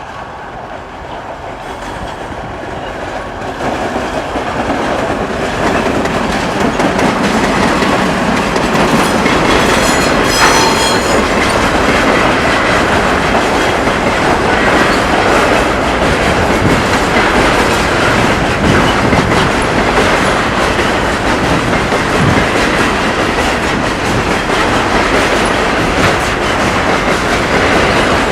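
Container freight train behind a 2TE10U diesel locomotive approaching and growing louder over the first several seconds, then rolling past steadily with the clatter of wagon wheels over the rail joints. A brief high-pitched squeal rings out about ten seconds in.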